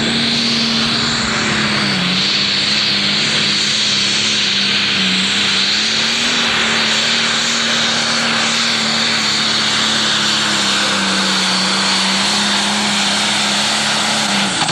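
Pro Stock pulling tractor's turbocharged diesel engine running at full throttle down the pulling track, loud and held at a steady high pitch with a couple of brief dips.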